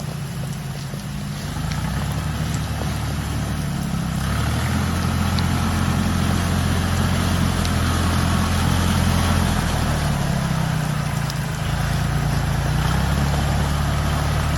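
Tractor engine running under varying load as it spreads gravel. Its note steps up about four seconds in and eases back shortly before the end.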